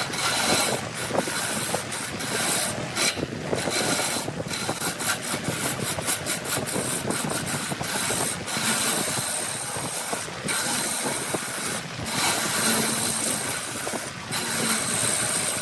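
Wood lathe spinning a workpiece while a turning tool works against the wood, a steady rasping scrape broken by many brief pauses as the tool lifts off and goes back on.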